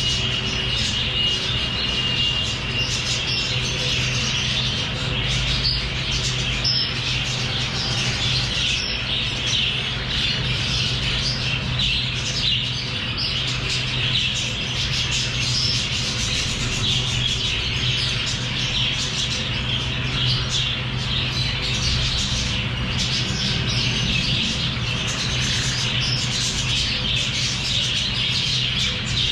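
A flock of lovebirds chattering and squawking continuously, with a steady low hum underneath.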